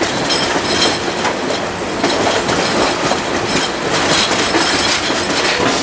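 Passenger train rolling along the track, heard from aboard: a steady rumble of wheels on rail with clickety-clack.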